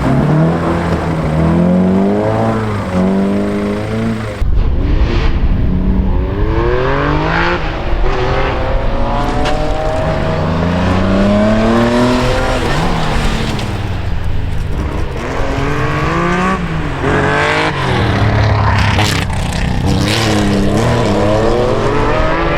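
Historic rally car engines at full throttle, the pitch climbing through each gear and dropping at every shift, over and over. The sound changes abruptly about four and a half seconds in, to another run of hard acceleration and gear changes.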